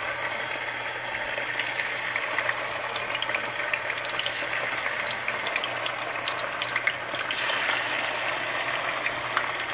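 Chicken pieces frying in hot oil in a frying pan: a steady sizzle with frequent small pops and crackles.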